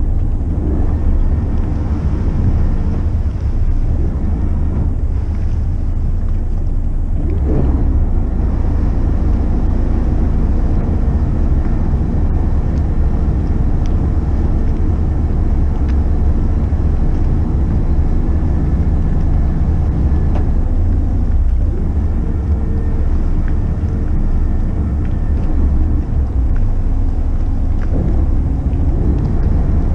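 McKinna 65 motor yacht under way: a steady low rumble of its engines and the passage through the water, even in level throughout.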